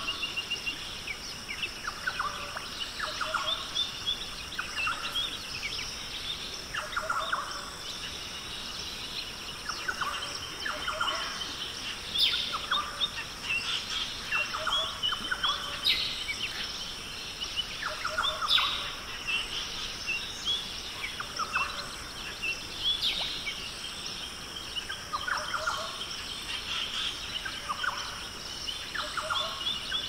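Birds calling over and over, short calls coming every couple of seconds among quicker high chirps, over a steady high-pitched hum.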